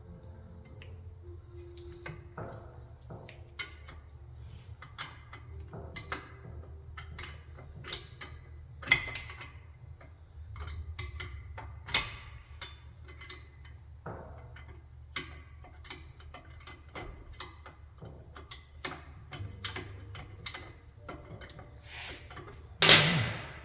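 Irregular sharp metallic clicks and clinks of hand tools and brake parts being handled during a rear drum-to-disc brake conversion, over a steady low hum. One much louder metallic clank with a short ring comes near the end.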